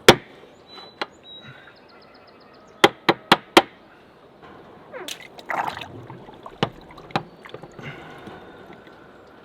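Hard knocks and clanks from the boat's transom wheel kit being handled and fitted: a loud knock at the start, a quick run of four around three seconds in, and a few more later, some ringing briefly like metal.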